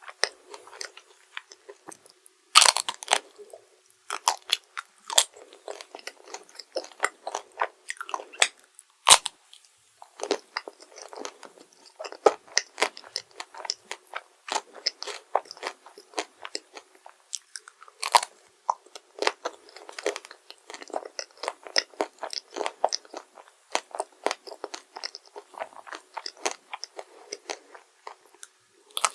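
Close-miked crunching and chewing of chocolate desserts. The dense, crackly chewing is broken by a few louder crisp bites, about three seconds in, nine seconds in and eighteen seconds in.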